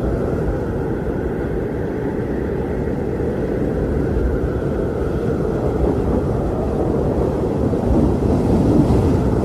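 Strong wind blowing in a steady, deep rumble, swelling slightly near the end.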